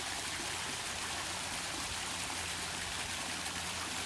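Water running steadily in a small garden pond waterfall, an even splashing trickle.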